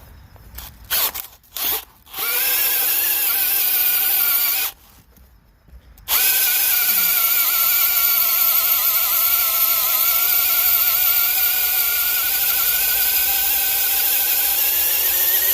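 DeWalt DCD996 brushless hammer drill in low gear, driving a large 1.5-inch bit. Three short trigger blips, then a run of about two and a half seconds, then after a pause a long steady run of about ten seconds, with the motor whining at a steady pitch under load.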